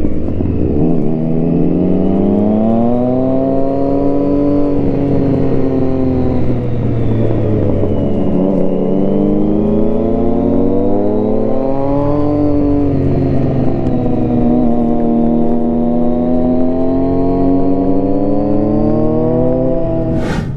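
Triumph Street Triple 675R's inline three-cylinder engine through an HP Corse Hydroform exhaust, running under way with its revs rising and falling smoothly several times as the throttle is rolled on and off. The sound cuts off abruptly at the very end.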